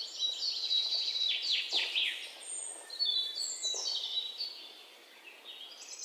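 Songbirds chirping and whistling, several calls overlapping, over a steady outdoor hiss; the calls thin out and grow quieter near the end.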